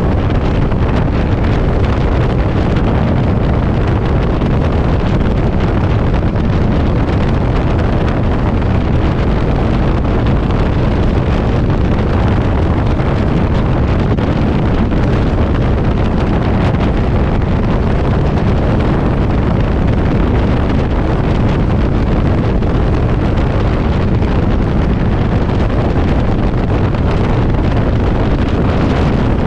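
Strong wind buffeting the microphone on a moving motorcycle, a loud, steady low rush with no clear engine note standing out.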